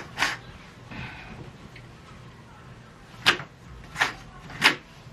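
A curtain rod being handled: four short, sharp clacks, the last three loudest and about two-thirds of a second apart near the end.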